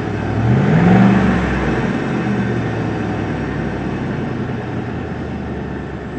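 Truck engine, newly fitted with a K&N cold air intake, revs up once about a second in and falls back, then settles into a steady, smooth idle.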